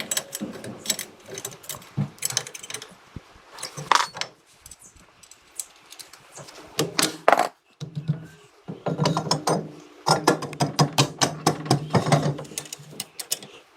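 Ratchet wrench being worked: rapid clicking in several bursts, the longest run near the end.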